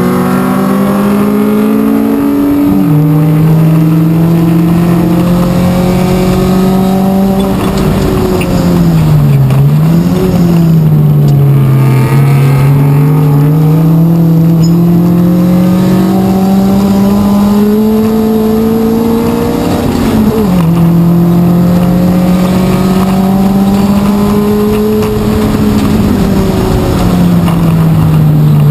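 Race car engine heard from inside the stripped cabin under load on track. Its note climbs slowly and steadily, drops sharply three times (a few seconds in, about two-thirds through and near the end), and dips briefly and climbs again about a third of the way through.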